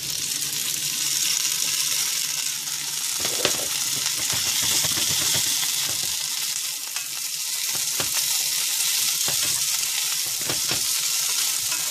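Boiled, drained fiddleheads hit hot oil in a cast iron skillet and sizzle, the sizzle starting sharply as they go in and then running steadily. A wooden spoon stirs them, with a few knocks against the pan.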